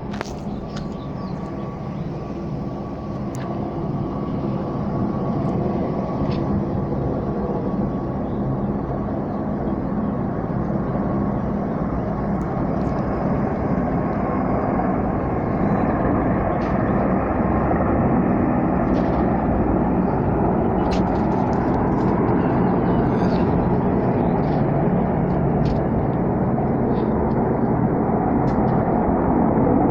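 Engines of low-flying military aircraft approaching: a steady rumbling drone that grows gradually louder.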